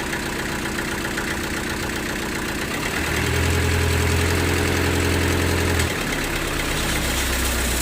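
Sawmill engine running steadily, growing louder and heavier for about three seconds in the middle before settling back.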